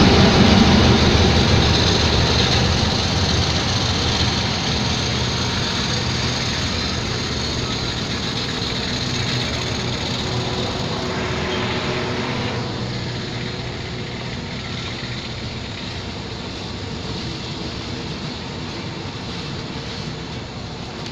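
Passenger train moving past a station platform: the diesel locomotive's engine hum, loud at first, fades as it moves off. It gives way to the steady rumble of the passenger coaches rolling by on the rails.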